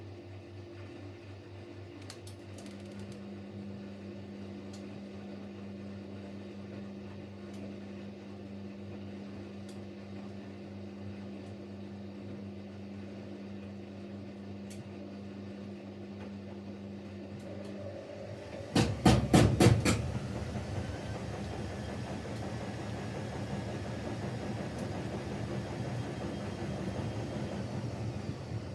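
Siemens Siwamat Plus 574 washing machine at the end of a rinse: a steady hum with a pump tone as the rinse water is pumped out, then a quick run of loud knocks about two-thirds of the way in as the drum starts its first intermediate spin, after which it runs louder and rougher.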